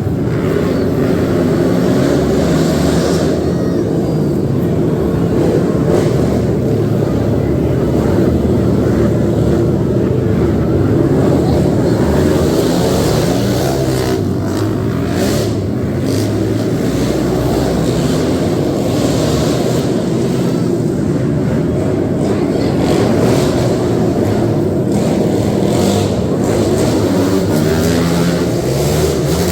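Racing quad ATV engines running together in a loud, continuous drone.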